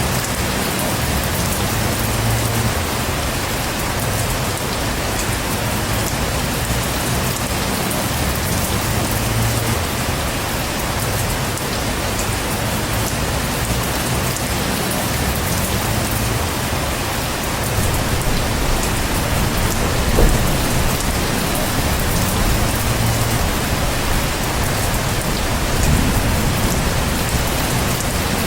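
Heavy rain falling steadily, with low rumbles of thunder coming and going beneath it.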